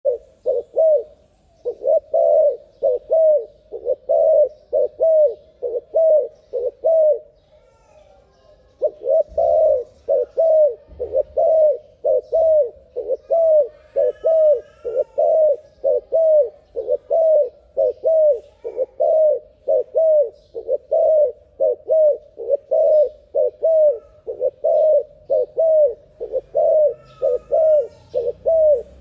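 A dove cooing fast: short, low, arched coo notes repeated about twice a second, broken by one brief pause after about seven seconds. Faint higher chirps come in twice.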